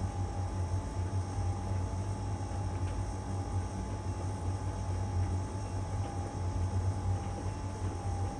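LG heat pump tumble dryer running steadily mid-cycle in its drying stage. A constant low hum comes from the machine, with a thin steady whine above it.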